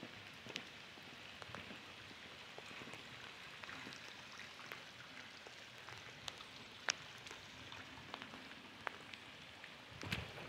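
Light rain falling on a wet street: a faint, steady hiss with a few sharp drops ticking now and then, the loudest about seven seconds in.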